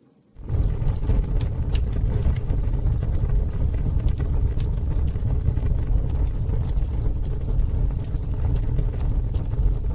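Campfire crackling with sharp pops over a loud, steady low rumble, cutting in suddenly about a third of a second in after near quiet.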